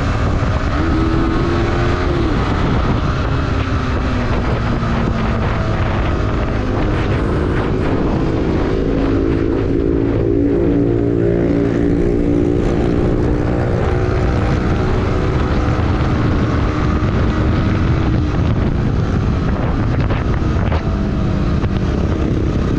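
Yamaha sport motorcycle's engine running at a steady cruise, its pitch rising and falling a little with the throttle, over wind noise on the rider's microphone.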